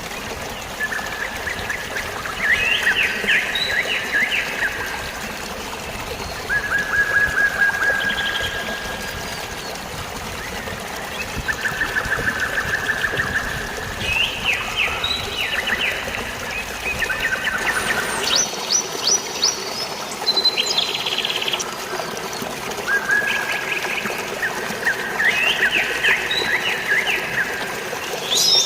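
Steady flowing, trickling water with songbirds singing over it: short trilled phrases that repeat every few seconds, with higher, quicker calls about two-thirds of the way through.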